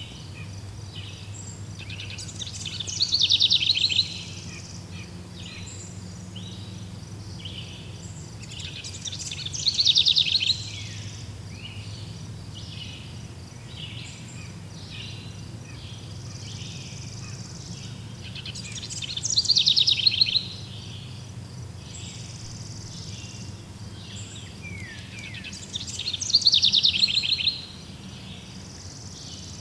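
Birdsong: one bird repeats a loud, rapid trilled song four times, about every seven seconds, over softer chirping from other birds and a steady low hum.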